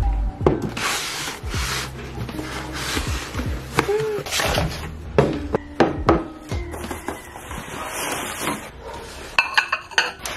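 Kitchen clatter: irregular knocks and clinks of dishes and utensils being handled, with a short ringing clink about four seconds in and a few brief rushes of hiss.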